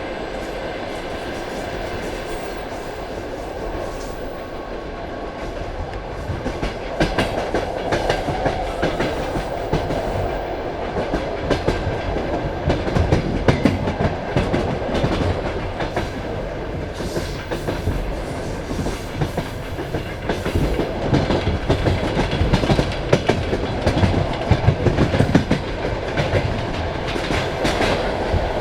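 Passenger train carriage rolling along the track: a steady rumble of wheels on rail with clickety-clack as the wheels pass over rail joints, getting louder and busier about seven seconds in.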